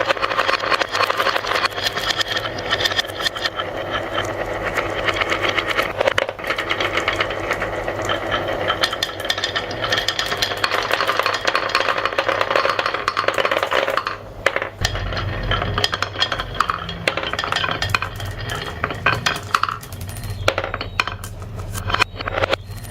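Marbles rolling and clattering down a marble run track, a dense rattle of many small clicks. About fourteen seconds in the rattle thins to scattered clicks over a low steady hum.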